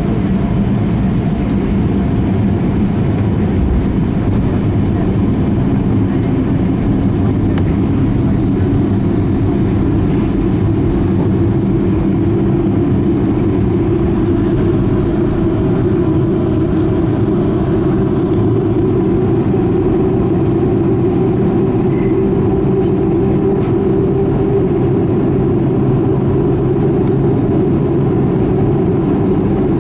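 Boeing 737-500's CFM56-3 jet engines running steadily, heard as a constant low rumble from inside the cabin.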